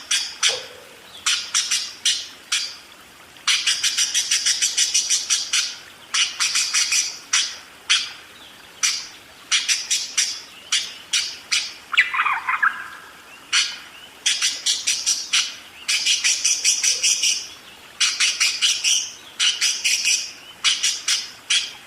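Budgerigar (parkit) chattering continuously: rapid runs of short, high chirps in bursts of a second or two with brief pauses between, and one lower, falling squawk about halfway through.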